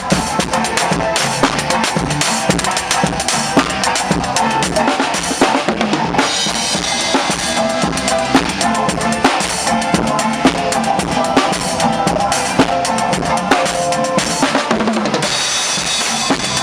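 A band playing live, with a drum kit loud throughout: kick drum and snare hits keep a steady beat under sustained pitched instruments.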